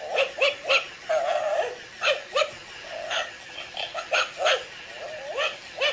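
A dog barking and yipping excitedly in a rapid, irregular run of short high calls, some drawn out into whines.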